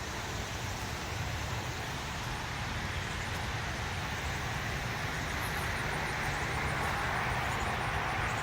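Road traffic noise: the steady hiss and rumble of passing vehicles, swelling slowly as a vehicle draws nearer.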